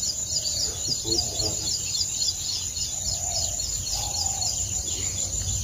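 A bird chirping over and over, about three short high chirps a second, over a steady low rumble.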